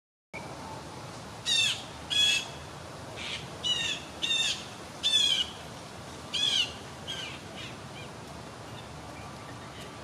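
A bird giving a series of short, loud calls, about seven in five seconds, then a few fainter ones trailing off, over a steady background hiss.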